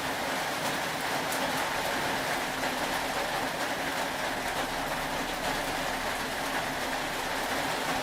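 Steady rain falling: an even rushing hiss with faint scattered drip ticks.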